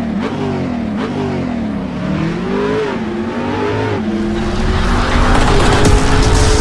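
Race car engine revving, its pitch rising and falling several times, then holding a steadier note as it gets louder near the end.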